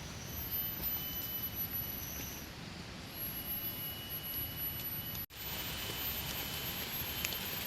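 Steady hiss of heavy rain in forest, with thin high whistling tones that start and stop every second or two, typical of forest insects. The sound cuts out for an instant about five seconds in.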